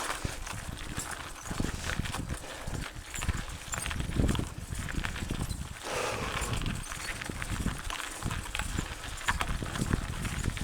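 Mountain bike riding a rough dirt trail: irregular knocks and rattles from the bike over rocks and roots, over a low rumble.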